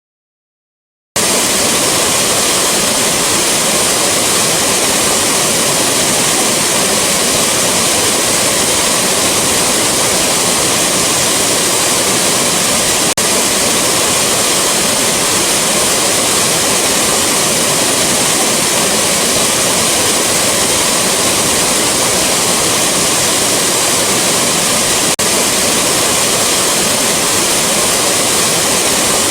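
Rushing waterfall: a steady, dense hiss and rumble of falling water that starts abruptly about a second in.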